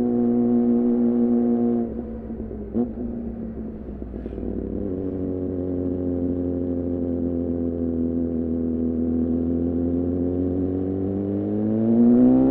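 2014 Yamaha R6's 600 cc inline-four, breathing through an R9 titanium muffler on a Leovince header, running at steady throttle. The throttle closes about two seconds in, with a single click soon after, and the engine idles down briefly. After a few seconds it pulls again at steady revs that rise near the end.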